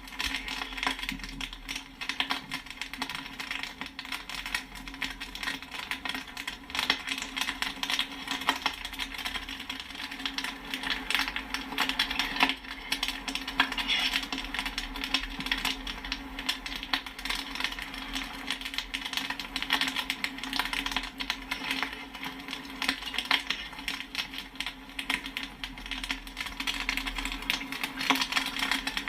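Popcorn popping: a dense, unbroken run of sharp pops and pings, many each second, over a steady low hum.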